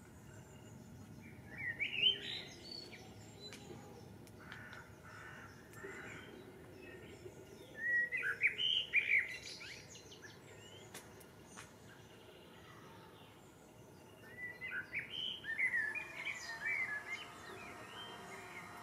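A songbird singing outdoors in three short bursts of quick, high chirping notes: about two seconds in, around eight seconds in, and again from about fifteen to seventeen seconds.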